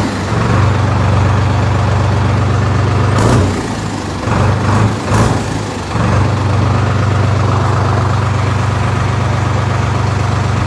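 Diesel tractor engine, just started, idling steadily. It runs unevenly for a few seconds about three to six seconds in, then settles back to a steady idle.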